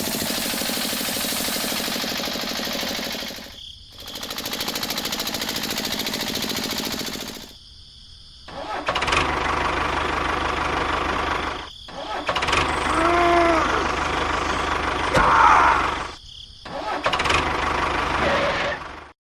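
Mini tractor engine running with a rapid knocking beat, in several stretches broken by short gaps.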